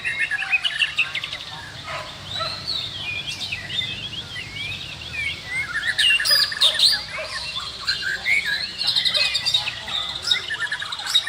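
White-rumped shamas singing: a varied, continuous stream of whistles, sliding notes and rapid chirps, with a few sharp clicks.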